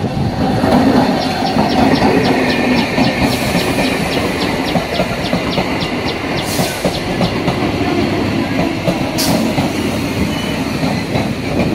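Suburban EMU local train running past on the near track: a steady rumble of wheels on rail, with a rapid high ticking of about four a second for several seconds and a few short bursts of hiss.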